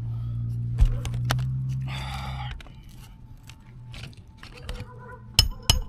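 Two sharp hammer blows on roofing nails near the end, driving the nails through asphalt shingles. Before them is a steady low hum with a brief hiss, and light scattered clicks.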